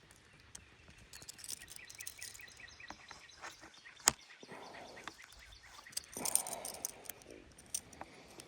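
Songbird chirping in a quick run of short repeated notes, with a single sharp click near the middle and some rustling and scuffing.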